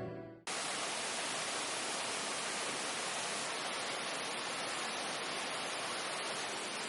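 Background music fades out, then a steady, even rush of water begins about half a second in and holds without change.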